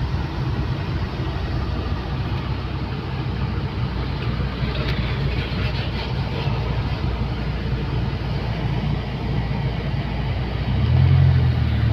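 1991 Ford Laser Gala driving at road speed: a steady engine hum with tyre and road noise. The low engine note grows louder near the end.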